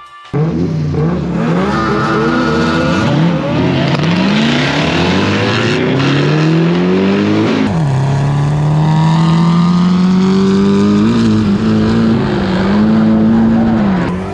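Drift car engine revving hard under throttle, its pitch climbing and falling again and again, dropping sharply about halfway and then climbing steadily, over a hiss of tyre squeal. The sound starts abruptly just after the beginning.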